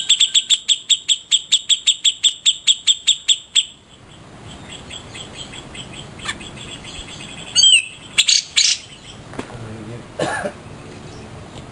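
Cica jenggot songbird singing: a rapid, even run of sharp high chirps, about six a second, lasting three and a half seconds. Fainter repeated notes follow, then a few loud wavering calls past the middle.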